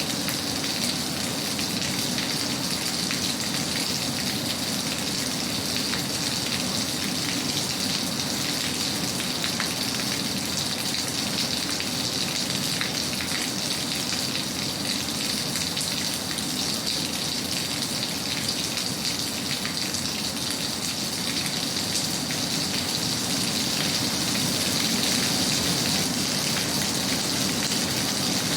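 Steady rain falling, an even hiss of many raindrops with no breaks or single louder events.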